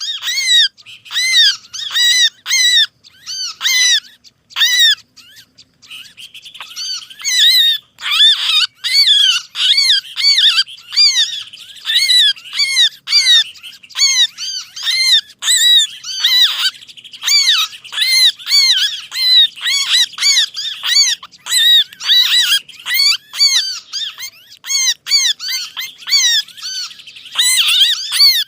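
Bird-lure recording of small songbirds calling in agitation: rapid, repeated arching chirps, with a steady high trill joining underneath from about six seconds in. It is the kind of noisy, distressed flock call used to draw small birds close.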